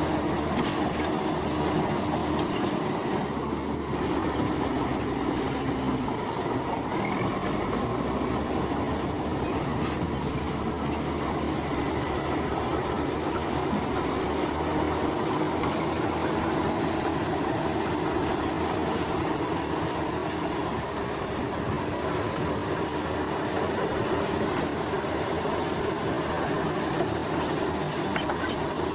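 Crawler bulldozer at work: the diesel engine running steadily under the clatter and high, on-and-off squeal of its steel tracks.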